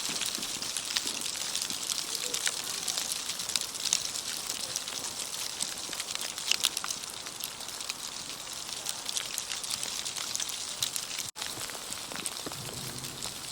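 Sleet falling steadily: a dense, fine patter of ice pellets ticking on snow.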